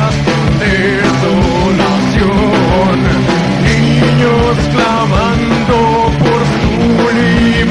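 Live heavy metal band playing loudly: electric guitars and bass over dense, fast drumming.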